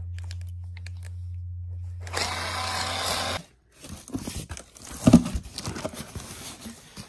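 A small power tool running with a steady low hum, biting into material for about a second before it stops; then a run of irregular knocks and clatters.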